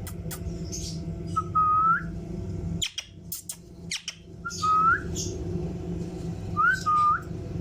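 Three short whistled notes, each held level and then sliding up at the end, with a few sharp clicks between them.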